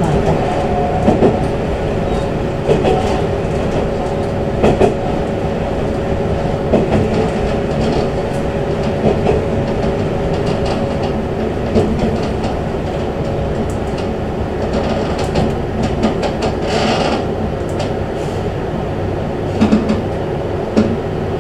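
Tenryu Hamanako Railway diesel railcar running steadily, heard from inside the front of the car: a continuous rumble with a steady hum, and irregular clicks of the wheels over rail joints. A brief hiss comes near the end.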